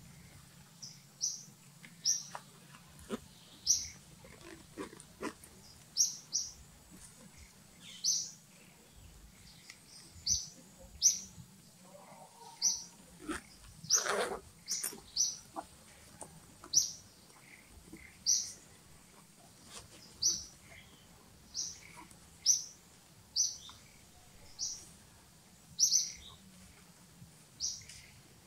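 A bird calling over and over with short, high, falling chirps, roughly one a second, with one brief louder sound about halfway through.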